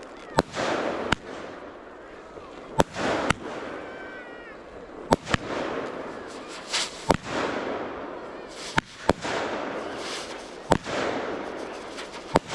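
Fireworks going off in a rapid series: sharp bangs every second or so, several in close pairs, each trailed by a fading crackle and hiss.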